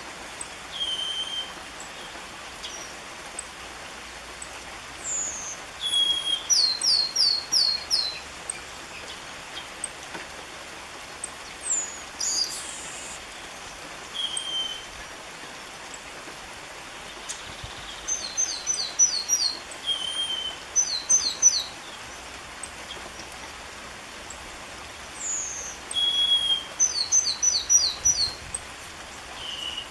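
Chestnut-capped blackbird (garibaldi) singing. Its phrases repeat every several seconds: a few clear, short whistled notes, then a quick run of four or five descending notes, over a steady background hiss.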